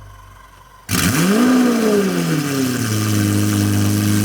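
Lamborghini Aventador S's 6.5-litre V12 starting up through a straight-piped Gintani F1 exhaust. It fires about a second in, flares up in revs and falls back, then settles into a steady idle.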